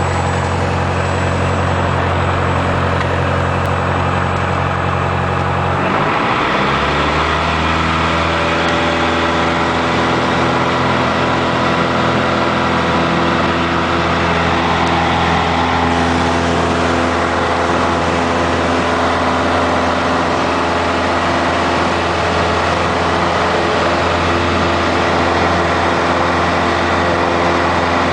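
Piper light aircraft's piston engine running steadily at low power, then throttled up about six seconds in: the pitch rises quickly and holds at full takeoff power for the takeoff run and climb.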